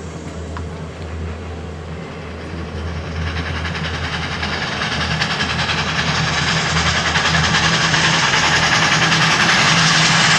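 Recorded train sound effect played over a show's loudspeakers: a train running on rails with a steady low rumble, growing louder from about three seconds in.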